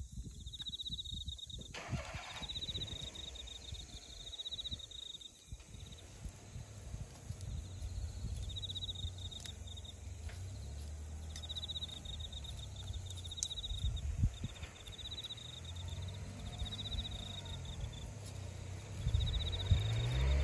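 Wood campfire crackling with scattered sharp pops, while insects trill in repeated bursts of a few seconds each. A low engine-like rumble, like a passing vehicle, builds in the second half and swells near the end.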